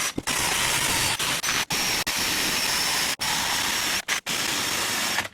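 Power tool with an abrasive or wire-brush head stripping paint off the steel body of a VW Beetle down to bare metal, ready for welding. It runs as a steady, harsh grinding hiss with a faint high whine, broken by several brief gaps.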